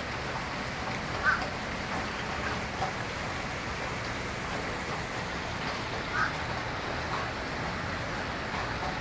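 Heavy rain falling steadily in a downpour, with a few short bird calls over it.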